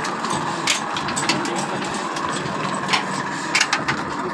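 A Mughal 28 hp Ruston-pattern diesel engine running with a steady clatter, cut by sharp knocks at uneven intervals.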